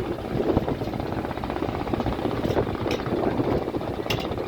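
Steady drone of a river launch's engine running underway, with a rapid fine pulsing in the rumble. A few short sharp ticks sound in the second half.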